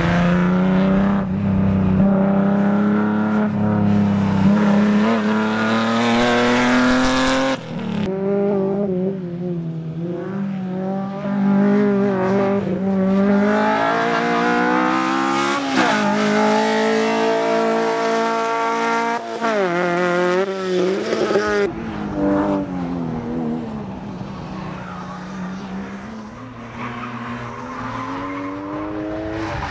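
A rally car's engine is driven hard through a slalom run. The revs climb repeatedly and fall sharply as it shifts or lifts off, with tyres squealing in the turns.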